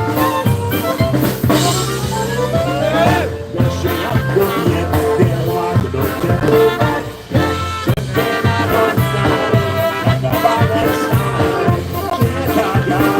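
Live polka band playing, with the drum kit keeping a steady beat under the melody instruments; a fast rising run sweeps up near the start.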